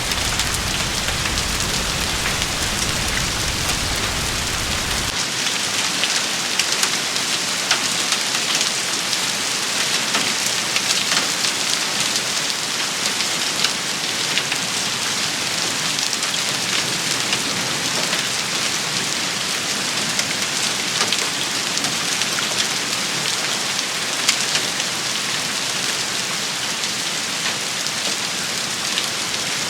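A steady, dense rain shower, with many sharp individual drop hits standing out. A low rumble underneath cuts off suddenly about five seconds in.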